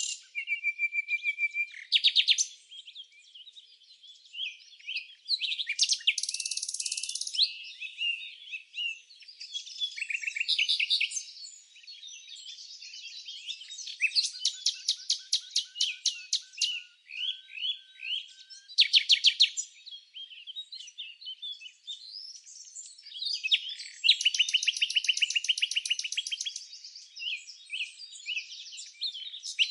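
Several songbirds chirping and singing, calls overlapping, with bursts of fast, even trills every few seconds.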